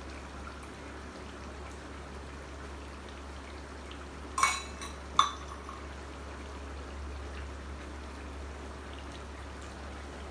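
Chicken gravy simmering uncovered in a clay pot, with a steady bubbling hiss. Two sharp, ringing clinks come a little under a second apart, about midway.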